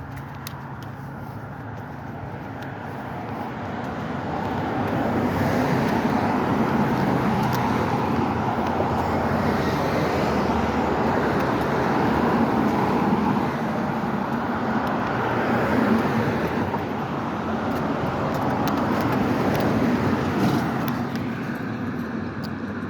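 Road traffic: cars passing with tyre and engine noise. It swells a few seconds in, stays steady and loud, and eases off near the end.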